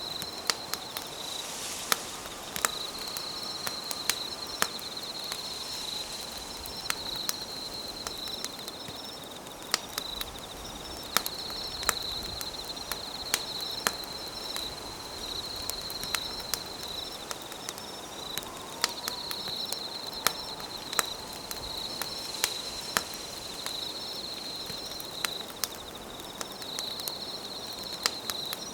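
Campfire crackling with sharp, irregular pops, over a steady high trilling of insects that swells and fades in long phrases.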